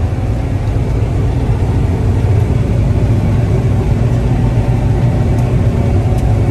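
Combine harvester running during soybean harvest, its engine and threshing machinery making a steady, loud low rumble heard from inside the cab.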